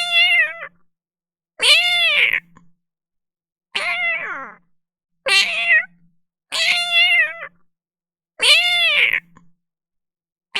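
A domestic cat meowing hoarsely six times, each meow under a second long and arching up then down in pitch, about every one and a half to two seconds.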